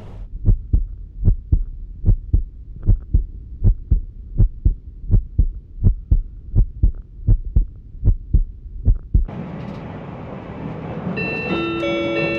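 Train wheels knocking over rail joints, heard from inside the carriage: pairs of dull knocks about every 0.8 s, muffled and bass-heavy. About nine seconds in, this switches abruptly to a louder, fuller running noise of the train. Near the end, the multi-note on-board electronic chime that comes before a station announcement begins.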